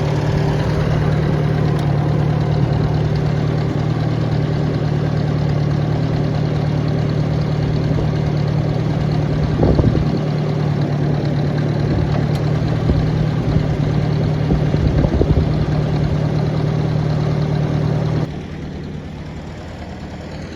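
Ford 860 tractor engine running steadily, then dropping to a quieter, lower running sound about 18 seconds in.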